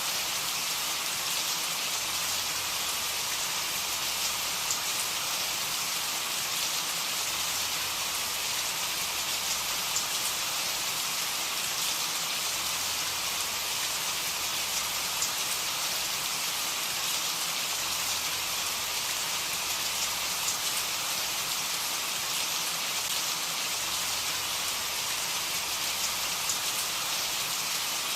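Steady rain falling on a surface, an even hiss with scattered small drop patters and no thunder.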